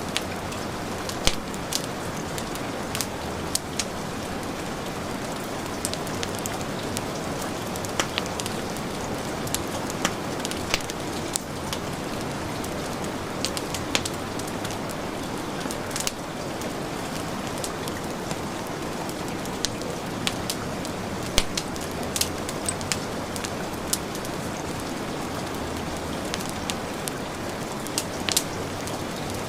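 Heavy rain falling steadily, with the crackle of a wood fire in a fireplace: scattered sharp pops at irregular intervals over the even hiss of the rain.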